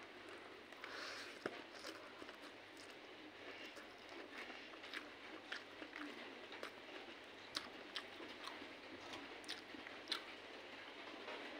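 A person chewing a mouthful of rice and spicy fried fish, eaten by hand, with short mouth clicks and smacks at irregular intervals.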